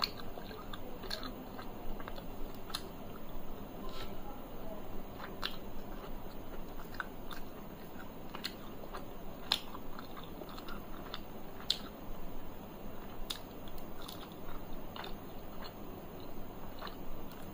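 Close-miked eating: chewing with wet mouth clicks and smacks that come irregularly, about one every second.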